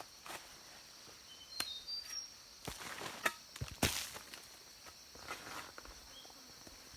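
Outdoor ambience: a steady high insect drone with scattered knocks and rustles, the loudest about three and four seconds in, and a few short high chirps near the start.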